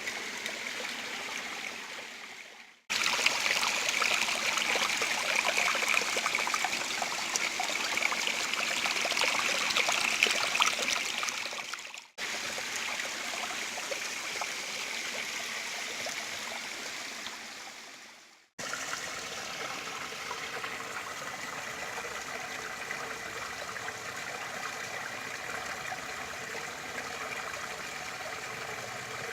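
Water rushing and splashing steadily down a small stream waterfall. The sound fades out and cuts to a new take three times: about 3, 12 and 18 seconds in. The last take is quieter and more even.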